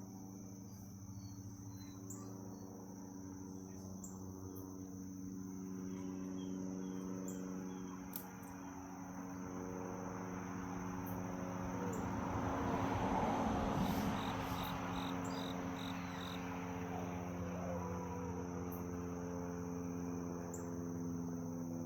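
Steady high-pitched insect chorus over a steady low hum. A rushing noise swells up around the middle, loudest about two-thirds of the way in, then fades back.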